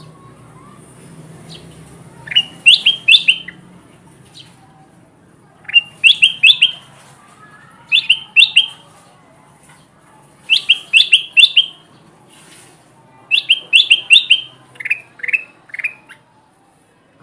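Kutilang emas, a bulbul, singing in short bursts of three or four quick, clear notes, five phrases a few seconds apart, the last trailing off in a few lower notes. It is a lure recording, played to call wild birds of the same kind in.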